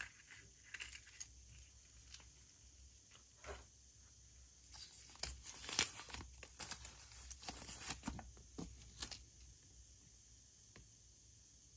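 Packaging being torn open and crinkled by hand: a run of rustles and small clicks, busiest in the middle, thinning out near the end.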